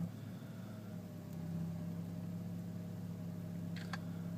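2001 BMW E46 inline-six idling in neutral, a steady low hum whose pitch creeps up slightly about a second in as the transmission load comes off. The owner is demonstrating a rough idle.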